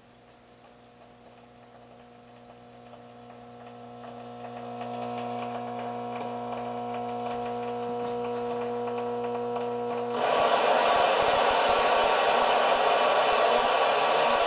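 Homemade 40106 CMOS hex-oscillator noise synth humming with several steady held tones that grow louder over the first few seconds. About ten seconds in it switches suddenly to a loud, harsh buzzing noise.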